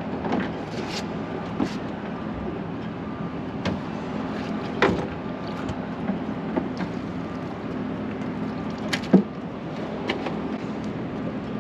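A fishing boat's motor hums steadily, with a few sharp knocks and clatters of gear on deck, the loudest about nine seconds in.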